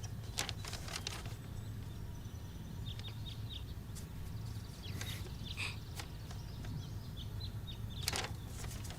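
Birds chirping faintly now and then over a steady low hum of ambience, with a few soft clicks.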